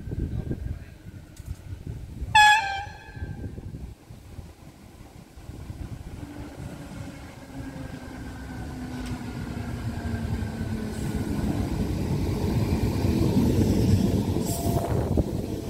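DART electric commuter train giving one short horn blast about two seconds in, then running in along the platform with a rumble of wheels on rail that grows steadily louder as the carriages come alongside near the end.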